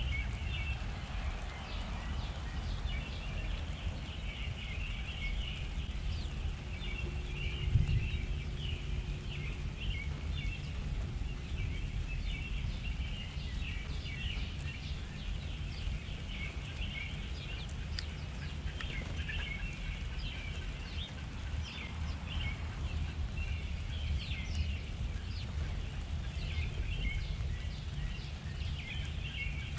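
Many small birds chirping and twittering continuously, over a low steady background rumble.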